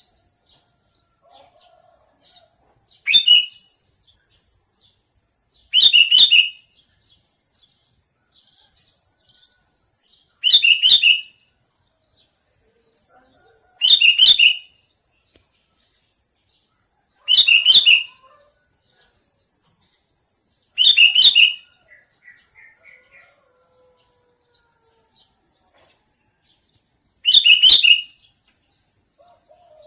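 Sooty-headed bulbul (kutilang) calling: seven loud, short phrases come about every three to four seconds. Between them run fainter, quick high chattering series.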